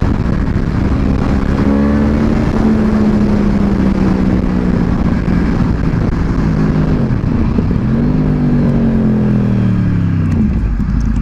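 Motorcycle engine running at speed over a heavy, steady rush of noise. Its pitch rises in the first couple of seconds, sinks slowly, rises again about eight seconds in, then falls away near the end.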